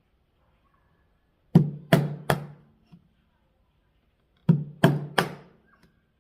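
A chisel being struck into a block of cedar to split off thin shingles: two runs of three sharp knocks, about a third of a second apart, each with a short low ring.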